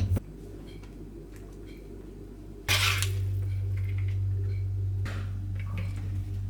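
Kitchen handling sounds: dishes and utensils clinking, with a short louder clatter about three seconds in and another near five seconds.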